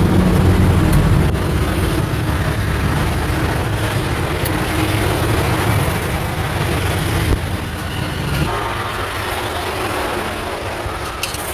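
Steady street-traffic noise with a low engine rumble that drops away about eight and a half seconds in.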